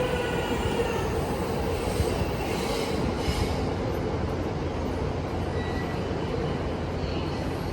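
Electric train pulling into the platform: a steady rumble of wheels on rail that slowly quiets as it slows, with a brief high wheel squeal about three seconds in.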